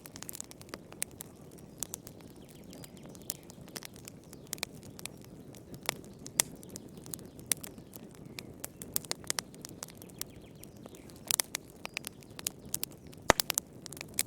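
Wood fire crackling in a fireplace: irregular sharp pops and snaps over a low steady rumble of the flames, with one louder pop near the end.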